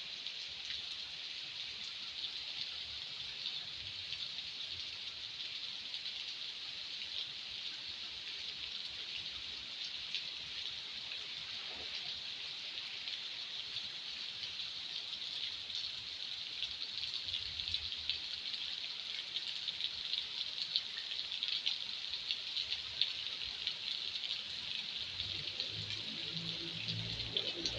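Light rain pattering steadily: an even hiss sprinkled with fine drop ticks. Some soft low rumbling comes in near the end.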